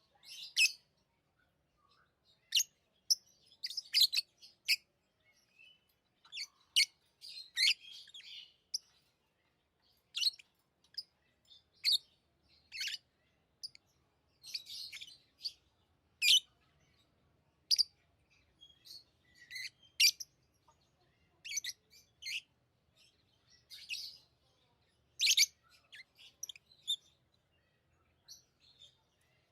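Pet lovebirds chirping: many short, shrill calls at irregular intervals, sometimes in quick clusters, with brief pauses between.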